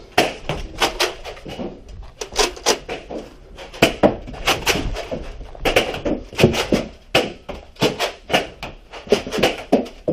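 Many sharp, irregular clacks and knocks, one after another, from a Nerf Rival game in a small room: blasters being worked and fired, and foam balls striking hard surfaces.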